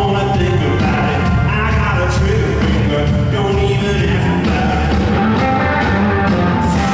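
Live blues-rock band playing at a steady loud level: electric guitars, bass, drums and keyboards together.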